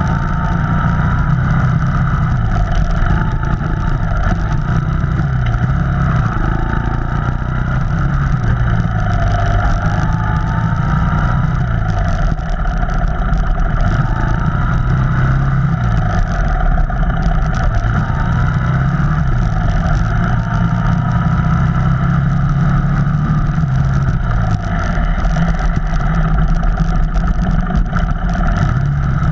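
Off-road vehicle engine running on a trail ride, its revs rising and falling every few seconds as the throttle is worked.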